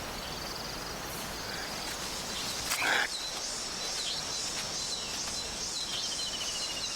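Forest ambience: insects trilling in short, fast-pulsed runs over a steady hiss, and a bird chirping about twice a second from about three seconds in. A brief louder sound comes just before that.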